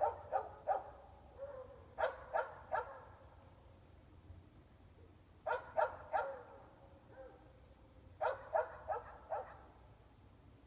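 Dogs barking in repeated bouts of three or four quick barks, a few seconds apart, over a low steady hum.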